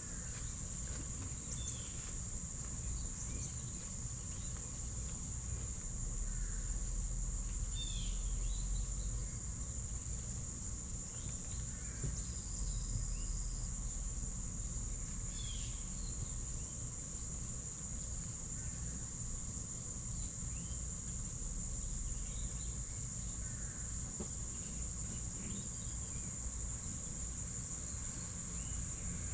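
Insects trilling in a steady, high, unbroken chorus, with short descending bird chirps every few seconds, most around the first half.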